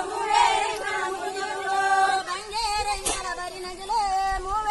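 Tulu folk singing: a voice holding long notes and bending between them in a slow melody, with a brief click about three seconds in.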